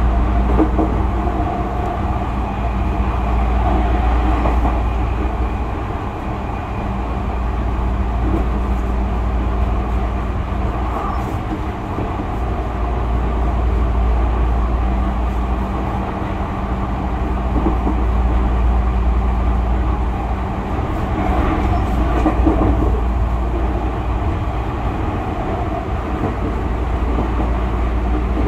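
Inside a Tokyu 5000 series electric commuter train running along: a steady low rumble of wheels on rail with a constant low hum underneath. The loudness swells and eases every few seconds.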